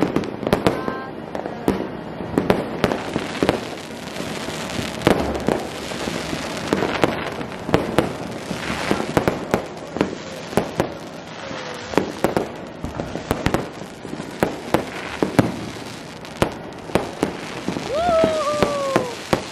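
Many fireworks going off at once: a dense, irregular run of sharp bangs and crackles with no break.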